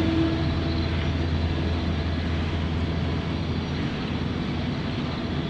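Diesel locomotive engine running steadily with a low rumble while it pulls freight cars. The last of a train horn fades out right at the start.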